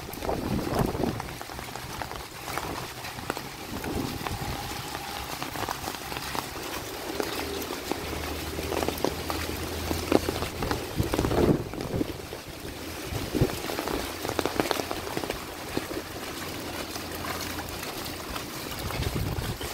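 Rain falling and water splashing on a flooded street, with a low steady engine hum from traffic for a few seconds around the middle.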